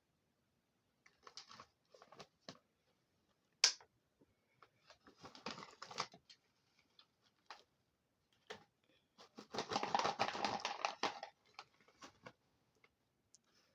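Crisp crunching of pretzel sticks being chewed, in several spells: the longest and loudest about ten seconds in, with a single sharp click near four seconds in.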